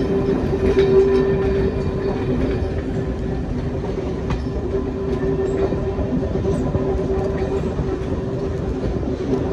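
Train hauled slowly by a class 08 diesel shunter: a steady rumble of wheels on the track under a constant droning hum, with a few faint clicks.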